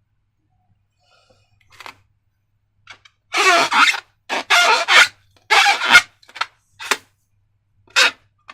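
Slime and rubber balloons being handled: after a quiet start, a run of about eight short, irregular squelching and rubbing noises.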